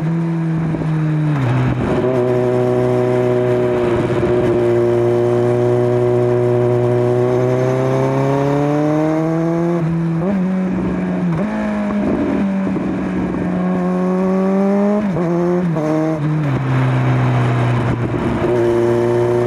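Kawasaki Z900 inline-four engine through a LeoVince LV10 aftermarket exhaust under way, its note rising and falling with the throttle. The pitch jumps up suddenly about ten seconds in and steps down again around fifteen to sixteen seconds.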